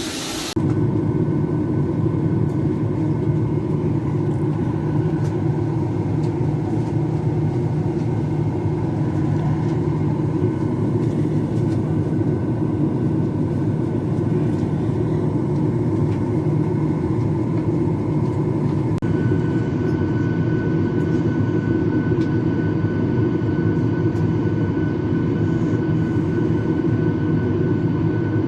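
Steady hum and rumble inside a passenger jet's cabin, the engines and air system running while the plane waits before takeoff. A thin high whine joins the hum about two-thirds of the way through.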